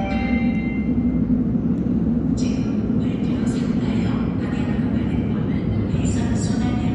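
Seoul Subway Line 2 train pulling into a station: a steady rumble of wheels on rails, with short high-pitched bursts starting about two and a half seconds in. The platform's arrival chime dies away in the first second.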